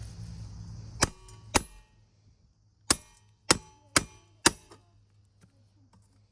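Metal hammer knocking on the pit bike's muffler: sharp ringing blows, two about a second in, then four more in quick succession from about three seconds in.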